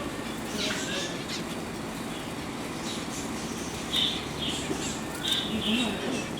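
Bird chirping: a few faint calls, then from about four seconds in a run of short, high chirps repeated several times a second, over steady background noise.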